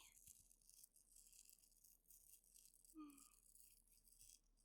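Faint, soft scratching and rustling: ASMR head-scratch sounds made close to the microphone. About three seconds in there is a brief, soft hum from the voice.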